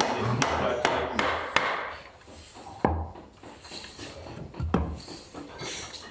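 Hand tools working wood: a quick run of sharp wooden knocks with scraping between them in the first two seconds, then two louder single strikes about three and five seconds in.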